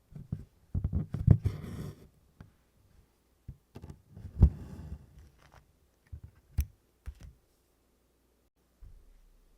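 Hand-stitching: a needle clicking and poking through stiff 24-count Congress cloth and cotton embroidery floss rasping as it is drawn through. Two bursts of small clicks with a short scratchy pull, about a second in and about four seconds in, then a couple of single clicks.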